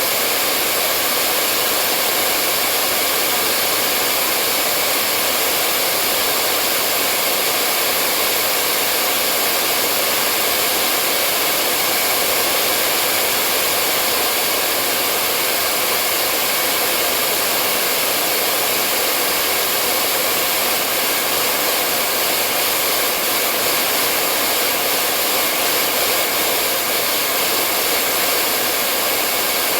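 Hair dryer running steadily: an even, unbroken airy hiss of the fan and rushing air, with a faint steady whine in it.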